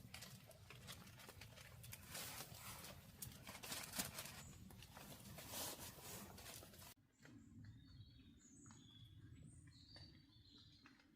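A dense run of crackling taps and patters. About seven seconds in it cuts off suddenly to a faint background with small birds chirping in short high notes.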